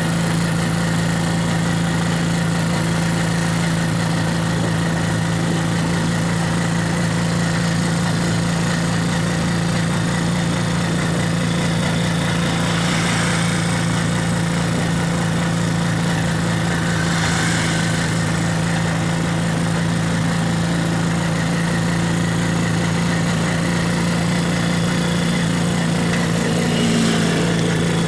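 Vehicle engine running with a steady, unchanging hum, with brief swells of hiss from passing traffic around the middle.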